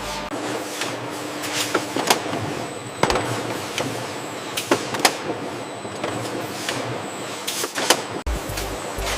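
Factory production-line machinery running with a steady whir, broken by sharp clicks and clanks every second or so.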